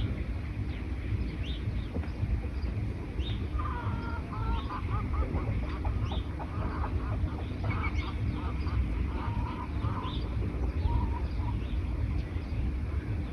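Wild birds calling in a forest: short high chirps repeating every second or so, with a run of harsher, quacking calls a few seconds in, over a steady low rumble.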